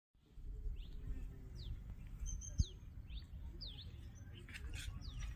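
Small birds chirping: scattered short, high, falling chirps every half second or so, over a low steady rumble. A single sharp click about two and a half seconds in.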